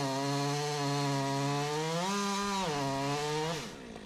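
Chainsaw running at high speed, cutting wood under load, with a steady pitch. About halfway through the pitch rises briefly, then settles back, and it cuts off abruptly near the end.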